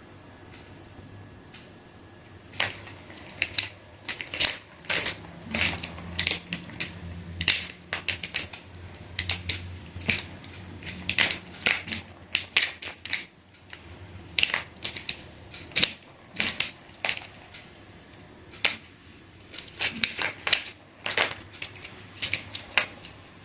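A cat at play making irregular sharp clicks and crackles in quick runs, with short pauses between them.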